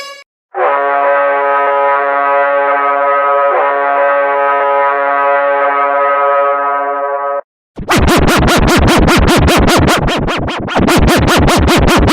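A horn sounding one long steady chord of several tones for about seven seconds. After a brief gap, a loud sound starts pulsing rapidly, about five times a second.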